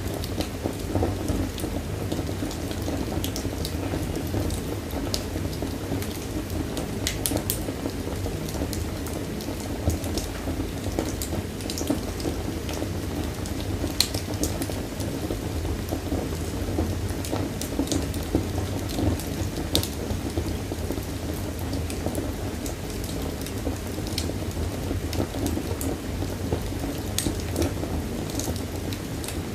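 Wood fire burning in a fireplace: irregular sharp crackles and pops over a steady low rumble of the flames, with one louder pop about halfway through.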